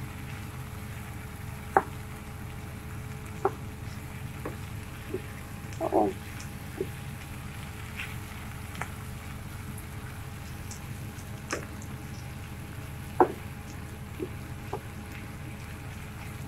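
Onions frying in oil in a pan, a steady sizzle with a few sharp clicks, the loudest about 2, 3.5 and 13 seconds in.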